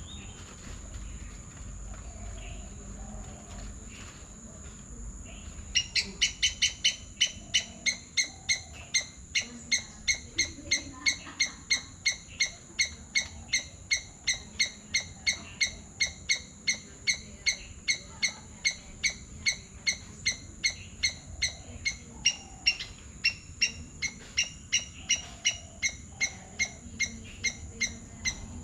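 A bird calling over and over, a sharp repeated note about twice a second that starts about six seconds in and keeps going. A steady high-pitched hum, like insects, lies under it throughout.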